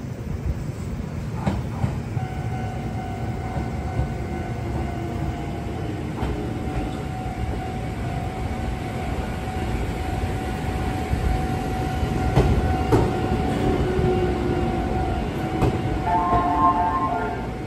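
Izuhakone Railway Daiyuzan Line electric train running along the line: a dense low rumble of wheels on rails with a steady whine over it and a few sharp knocks. A brighter ringing tone joins near the end.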